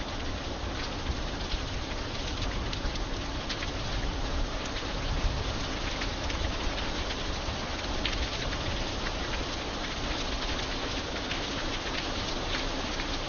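Steady rain falling: a constant hiss with many sharp ticks of individual drops striking a surface.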